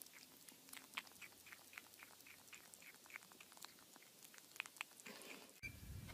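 Kitten chewing and biting on a hard plastic rim: faint small clicks and crunches a few times a second. It gives way to a low hum near the end.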